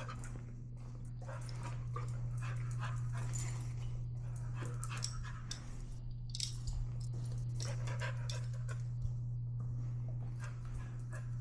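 Search dog panting as it works, with short irregular ticks and scuffs, over a loud steady low hum.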